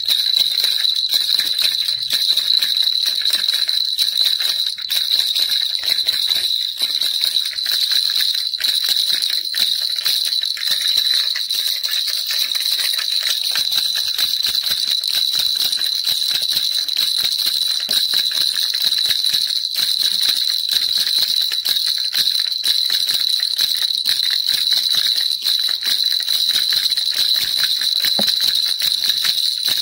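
Baby's toy rattle shaken without a break: a dense, steady jingling rattle with a bright high ring.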